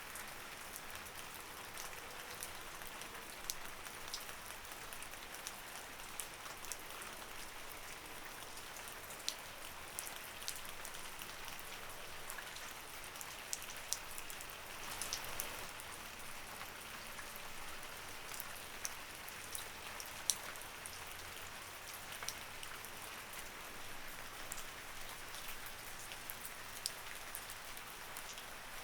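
Light rain falling steadily, a soft even hiss with many distinct drops pattering and ticking on a surface.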